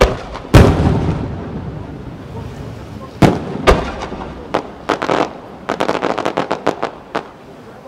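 Aerial firework shells bursting overhead: two heavy booms in the first second, two more a little past three seconds in, each trailing off, then a quick run of smaller, sharper cracks for the next few seconds.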